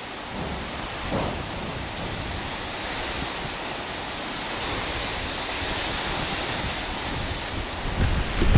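Steady rushing noise of storm wind and water, growing louder near the end.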